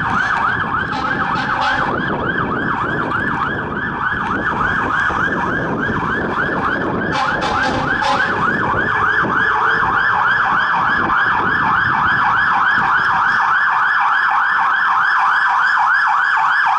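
Fire engine's electronic siren on yelp: rapid rising-and-falling wails, about three or four a second, with the truck's rumble underneath.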